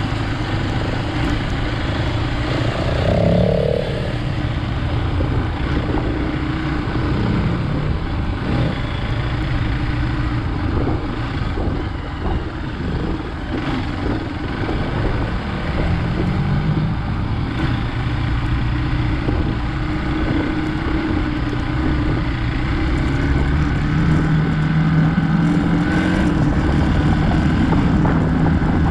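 Hero Xpulse 200 motorcycle's single-cylinder engine running while riding off-road, its note rising and falling with the throttle over a steady rush of noise.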